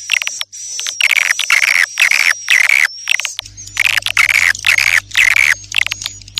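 Swiftlets twittering and chirping in quick repeated bursts, about two a second, over a thin high whistle-like tone: a swiftlet call track of the kind played to lure swiftlets. A steady low electrical hum comes in about halfway through.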